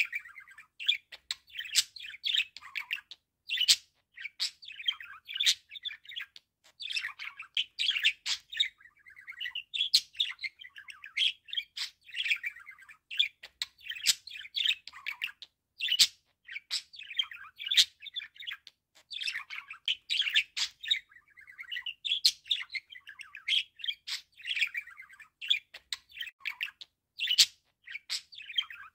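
Budgerigar chattering and warbling without pause, a rapid run of chirps, clicks and squeaks.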